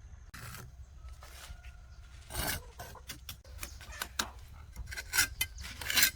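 Irregular rasping scrapes of a hard tool or object on a rough surface, a few strokes louder than the rest.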